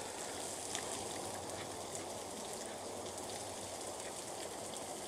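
Bacon, sausage links and vegetable hash frying on a Blackstone flat-top griddle: a steady sizzle with scattered small pops.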